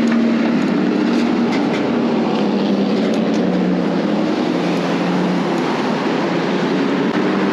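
Steady road-traffic noise from vehicles passing close by, with a low engine hum that drifts slightly down in pitch partway through.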